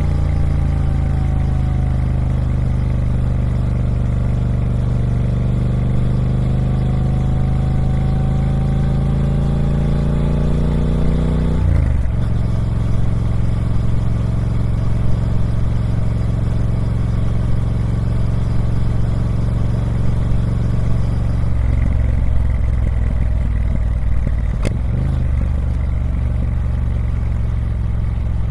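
Triumph Speed Twin 1200's parallel-twin engine on its stock exhaust, running steadily with a deep, even note. Its pitch changes abruptly about twelve seconds in and again about twenty-one seconds in, then holds steady.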